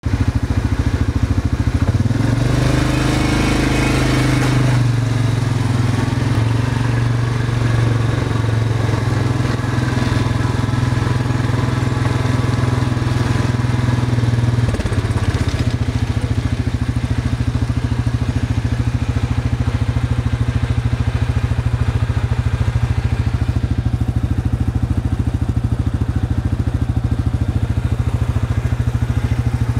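An engine running steadily with a low, even drone. Its note rises briefly a few seconds in, and the sound shifts in character about halfway through.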